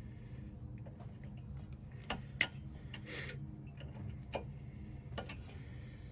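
A handful of sharp, irregular metal clicks and taps from hand tools working on a car's tie rod end, the loudest about two and a half seconds in, over a faint low hum.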